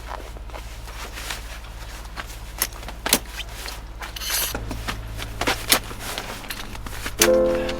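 Scattered clicks, knocks and rubbing of camp gear being handled while a tent is pitched, with a short rustle about halfway through. Music starts near the end.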